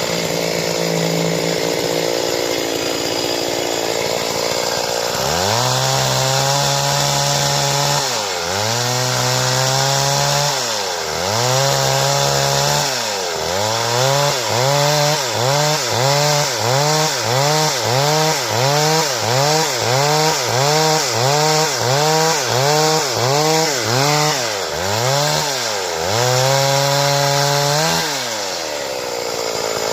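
Stihl two-stroke chainsaw cutting wood at full throttle. Its engine pitch repeatedly drops and recovers as the chain bites into the cut, in a fast, regular rhythm through the middle, with one deeper bog-down near the end.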